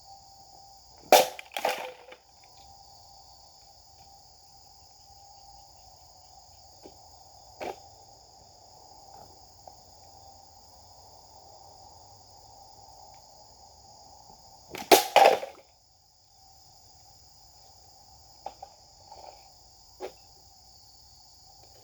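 Japanese sword swung in cutting strokes: a quick pair of sharp swishes about a second in and another pair about fifteen seconds in. Behind them is a steady high-pitched insect chorus.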